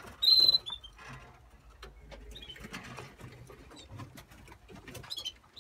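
Canary gives one loud, high chirp about a quarter second in, followed by a scatter of soft, irregular clicks and a couple of faint chirps near the end.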